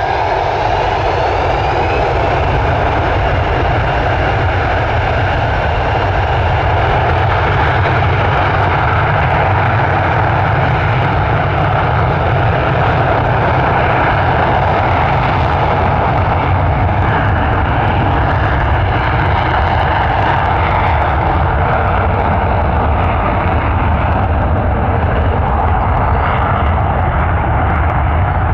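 Boeing 727-200 trijet's three Pratt & Whitney JT8D low-bypass turbofans running at takeoff power, loud and steady. A few faint gliding whines show in the first seconds, and the high-pitched hiss thins out in the second half while the deep rumble stays.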